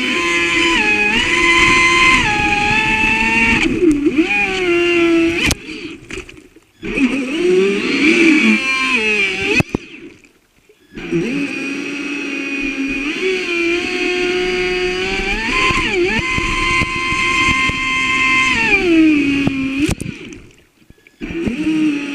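Traxxas Spartan RC boat's brushless electric motor whining, its pitch stepping and gliding up and down with the throttle. It drops away almost to nothing three times, briefly.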